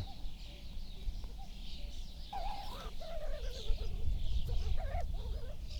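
Birds singing and calling, with wavering lower calls twice and higher chirps throughout, over a low rumble of wind or handling noise.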